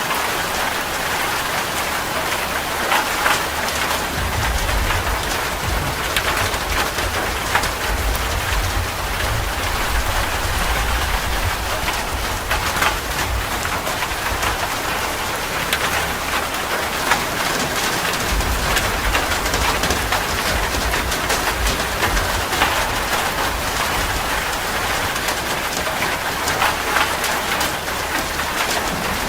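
Heavy rain falling on a metal roof: a steady hiss full of sharp drop ticks. A long, low rumble of thunder starts about four seconds in and fades out past the middle.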